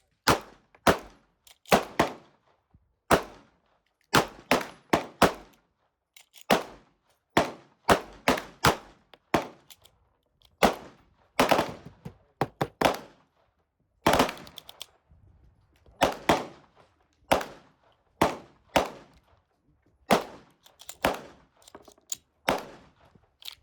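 Handgun shots fired in irregular strings, often two or three in quick succession, each a sharp crack with a short echo tail.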